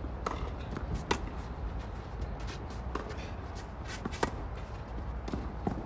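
A few scattered, irregular light knocks and scuffs over a steady low background rumble.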